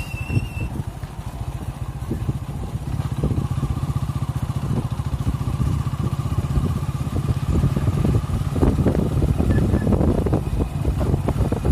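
Motorcycle being ridden, its engine giving a steady low rumble.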